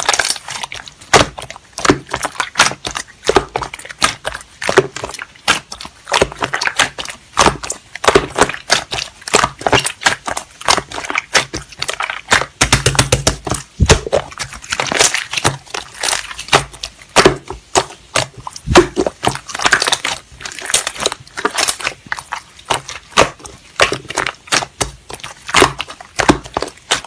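Dense, rapid crackling and clicking, many sharp little snaps a second, coming in clusters with brief gaps.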